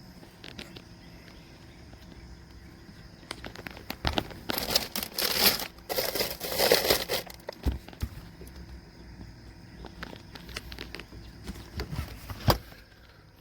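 Rustling handling noise with scattered clicks, loudest in the middle, and a single sharp knock near the end.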